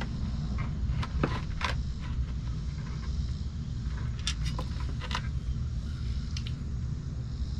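Scattered sharp clicks and knocks of tools and parts being handled under a truck during an oil change, over a steady low rumble.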